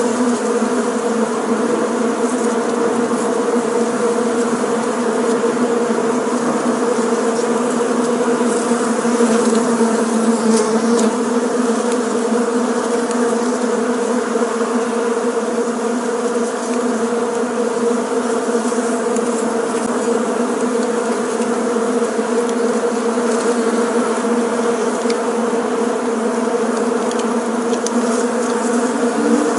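Bees buzzing in a steady, unbroken drone that holds one even pitch throughout.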